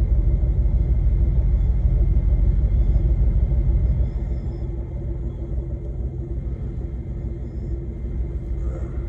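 Steady low rumble with a faint hum, as of a truck engine idling, heard from inside the cab; it drops a little about four seconds in. A short click comes at the very end.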